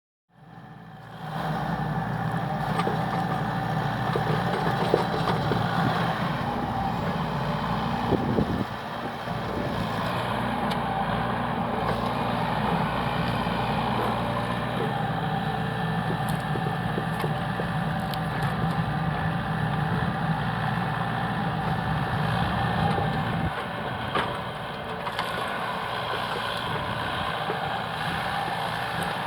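Heavy engine running steadily for the whole stretch, with a few brief knocks; the engine note shifts slightly twice.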